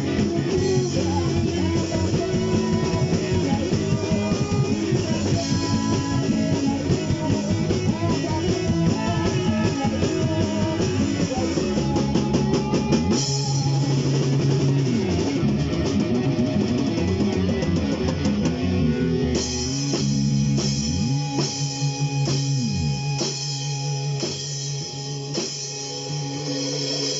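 Instrumental rock music: guitar and drum kit playing with no vocals. About halfway through, the dense full-band sound drops back to sliding low notes over drums and steady cymbal strokes.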